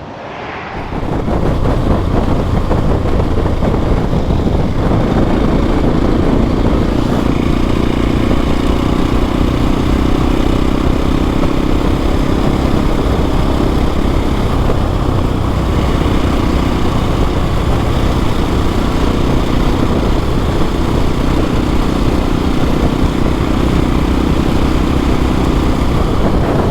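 Motorcycle engine running under way with heavy wind noise, building over the first two seconds and then holding a steady drone.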